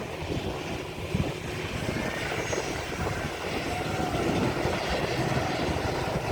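Airliner engines growing steadily louder as the aircraft approaches.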